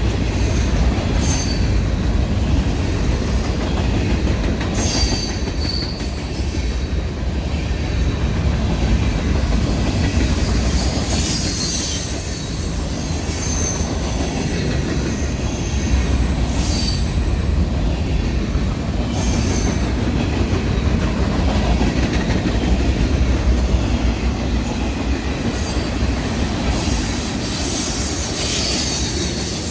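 Railroad cars of a passing train rolling by on the track: a steady rumble with brief high wheel squeals every few seconds.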